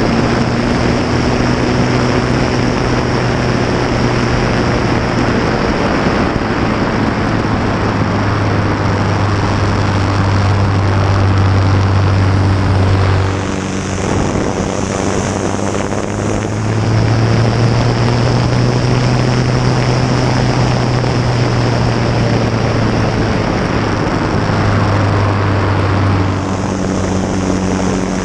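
Piston engine and propeller of a Fournier light aerobatic aircraft, heard close up from the cowling with heavy airflow noise, running under power through aerobatic figures. The engine note drops briefly about halfway through and shifts again near the end as power and attitude change.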